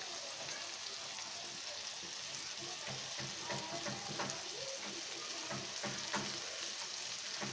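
Boneless chicken breast steaks frying in oil in a nonstick pan: a steady sizzle and crackle of the hot oil.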